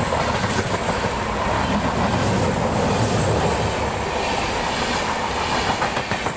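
Train running on the rails: a steady, loud rumble and rattle of wheels and carriages.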